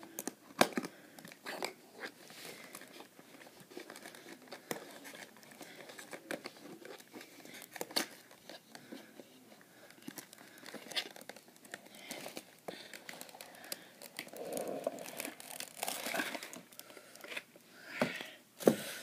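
Hands handling a model railway coach and its plastic packaging: irregular crinkling and rustling with scattered sharp clicks and knocks, a louder knock near the start and another near the end.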